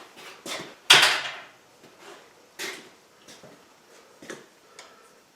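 Metal tools and steel stock being handled at the forge: a few knocks and scrapes, the loudest about a second in, with fainter ones afterwards.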